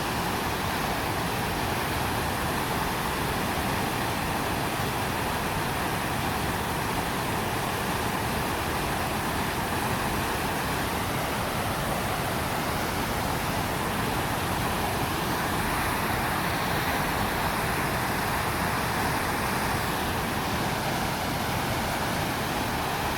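Steady rushing of a river in flood, running high after heavy rain.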